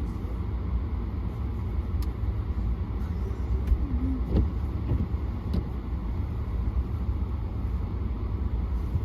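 Steady low rumble of a car's engine and tyres on a snow- and ice-covered road, heard from inside the cabin, with a few faint clicks.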